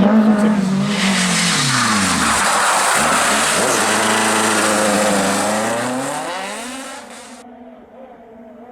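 Renault Clio F2000 rally car engine at high revs. The pitch dips about two seconds in, climbs back and holds, then falls away as the sound fades. A sudden cut near the end leaves only faint engine noise.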